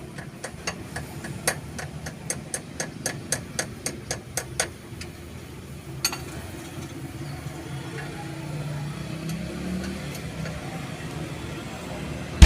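A run of sharp clicks, about three a second, for the first five seconds, then one more click about six seconds in, over a steady low hum.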